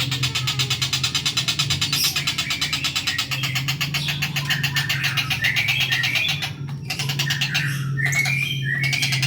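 Kingfisher (tengkek buto) calling in short, chirping phrases over a fast, steady pulsing trill, with a low steady hum underneath.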